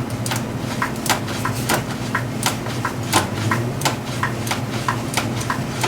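Ratchet wrench clicking steadily, about three clicks a second, as short back-and-forth swings back out a loosening bolt.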